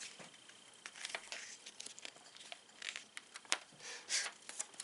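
Quiet paper rustling and handling clicks as picture-book pages are turned, in short scattered bursts.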